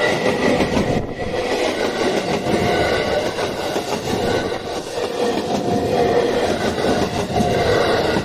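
A train passing close by over a level crossing: a steady rumble of wheels on rail, with the crossing's warning bell heard through it now and then.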